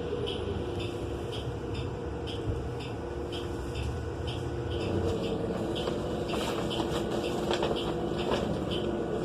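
Inside a 2018 New Flyer XN35 transit bus, its Cummins Westport L9N natural-gas engine and Allison driveline make a loud, steady drone that is not masked by any HVAC. The drone's pitch begins to rise near the end as the bus pulls away. A faint regular ticking runs through it, and a few rattles come in the later part.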